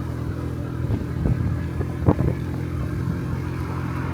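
Honda Dio Cesta AF68 50cc scooter engine running steadily while riding, with a few brief thumps about a second and two seconds in.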